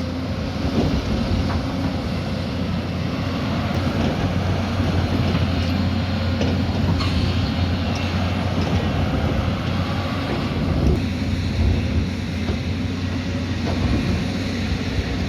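Heavy diesel earthmoving machinery running steadily at work, a deep engine hum with a few short knocks.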